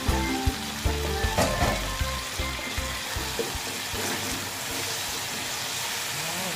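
Chicken pieces and potato cubes sizzling in a hot oiled nonstick wok, a steady frying hiss, stirred with a wooden spatula near the end. Background music plays at first and fades out within the first couple of seconds.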